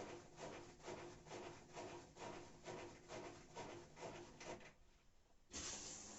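Whirlpool washing machine's drain pump running at the start of a wash cycle, with a rhythmic pulsing of about three beats a second that stops near the end. Soon after, the water inlet valve opens and water hisses steadily into the machine.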